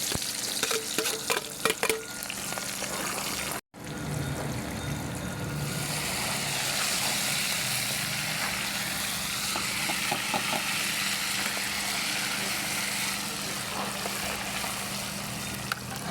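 Stew ingredients frying in hot oil in a pot, sizzling, with knocks and clinks of a stirring utensil in the first few seconds. After a short break in the sound the sizzle settles into a steady hiss.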